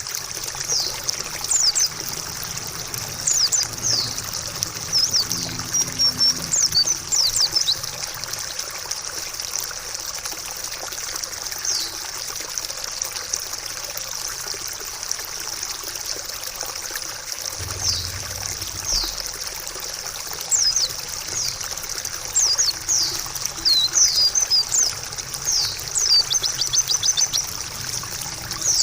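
Steady trickling water with short, high chirps of a white-eye (pleci) scattered throughout. The chirps are quick downward-sweeping notes, sparser in the middle stretch.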